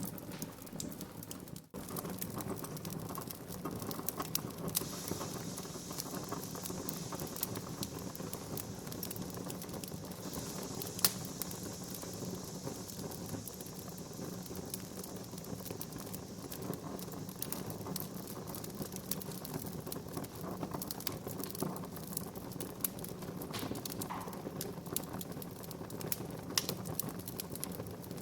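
Wood fire crackling in a fireplace: irregular small snaps and pops over the steady hiss of the burning logs, with one sharp, louder pop about a third of the way through.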